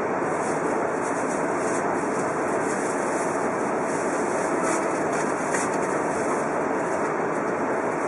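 Steady running noise of an Odakyu Romancecar VSE 50000-series electric express train under way, heard from inside its front observation cabin, with a flickering hiss on top of the rumble.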